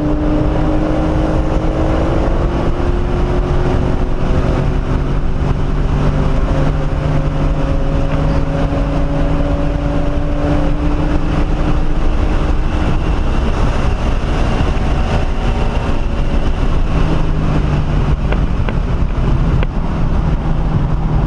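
Inside the cabin of a 1997 SVT Cobra Mustang, its 4.6-litre V8 pulling hard at speed on a race track: the engine note climbs slowly over the first dozen seconds, then sinks under a steady rumble of tyres and wind.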